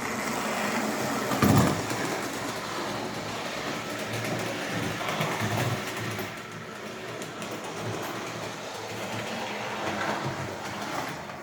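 Lionel model train running on the track: a steady electric motor whir and wheel rattle, with many small clicks and a louder clatter about a second and a half in.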